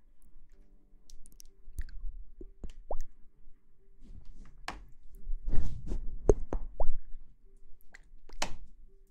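Close-miked ASMR trigger sounds: scattered soft wet plops and clicks at an irregular pace, a few of them short pops that rise quickly in pitch, busiest in the middle.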